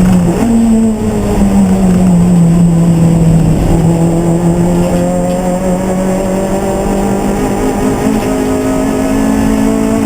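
Race car engine running hard at a near-steady pitch, stepping up or down a little a few times as the car shifts gear or changes throttle.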